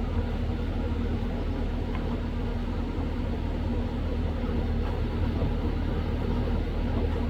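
A steady low mechanical hum, like an idling engine, with no change in pitch or level.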